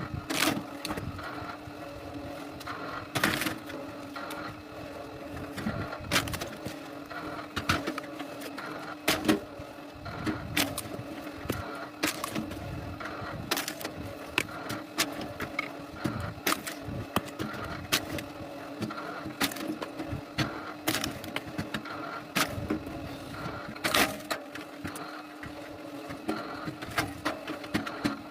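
A machine running with a steady hum while wood cracks and knocks sharply at irregular intervals, as firewood is split.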